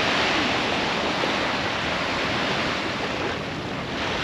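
Sea surf washing onto a sandy beach: a steady rush of breaking waves, easing slightly about three and a half seconds in.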